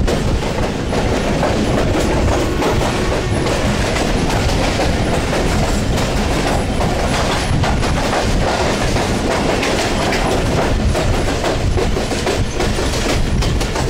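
Passenger train running at speed, heard from an open carriage doorway: a steady loud rumble of steel wheels on the rails with many clacks and knocks over the track.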